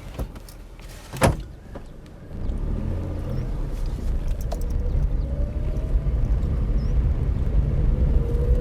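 A sharp knock about a second in, then a vehicle's engine running from about two seconds in, with a faint whine that slowly rises in pitch.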